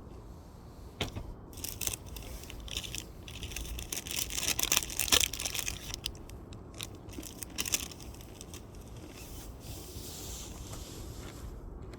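Wood fire burning: firewood crackling and popping over a hiss, the pops coming thickest a few seconds in.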